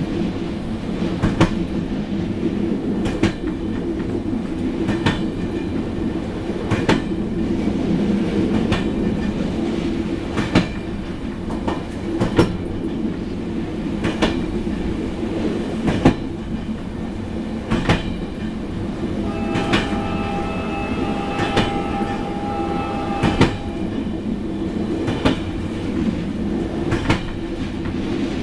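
Passenger train carriage running steadily along the track: a low rumble with a sharp wheel click over a rail joint about every two seconds. For a few seconds past the middle, a high steady whine joins in.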